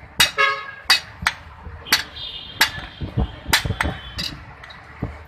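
Hand hammer striking iron on an anvil in a series of sharp metallic blows, about one a second, some with a short ring afterwards.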